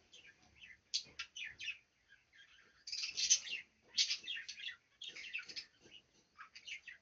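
Small cage birds chirping: rapid clusters of short, high tweets, busiest and loudest from about three to four and a half seconds in.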